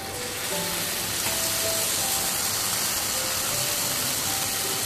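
Tomato puree sizzling as it is poured onto hot oil and masala in a frying pan: a steady hiss that sets in suddenly and grows louder over the first second.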